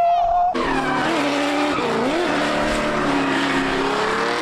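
A car running at high revs with its tyres squealing as they slide. The pitch wavers and dips about two seconds in, then climbs steadily near the end as the engine revs up.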